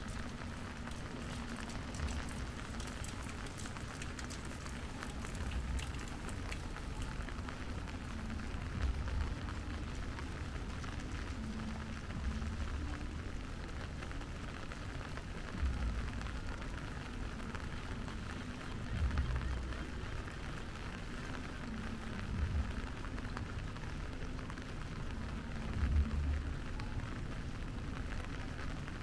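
Steady rain falling, an even hiss, with irregular low rumbles every few seconds.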